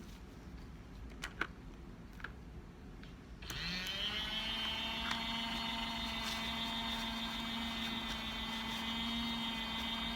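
A few light clicks, then about three and a half seconds in the small electric motor of a makeup-sponge washing machine starts up, rising briefly in pitch, and runs steadily with a hum.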